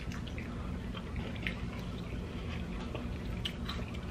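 Close-up chewing and wet mouth sounds of people eating slider burgers and stir fry, with scattered small clicks, over a steady low hum.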